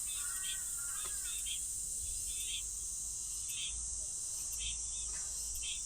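Night insects calling: a steady high drone with repeated chirps about once a second, and a few short bird-like call notes in the first second or so.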